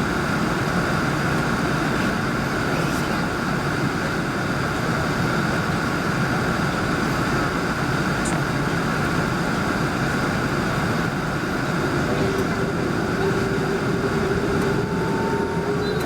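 Airbus A380 cabin noise from a window seat: a steady rush of the engines and airflow, with a faint whine that slowly rises in pitch over the last few seconds.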